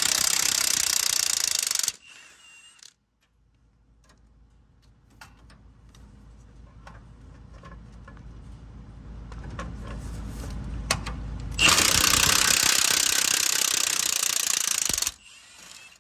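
Half-inch impact gun hammering on 15 mm engine-mount bolts through a swivel socket and long extension: one burst that stops about two seconds in, then a few seconds later a second burst lasting about three seconds. Between the bursts, scattered light clicks and a low hum that slowly grows louder.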